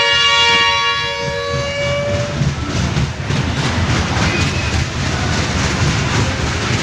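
Train horn sounding a held, multi-tone chord that stops about two seconds in, followed by the rumble and clatter of the train running along.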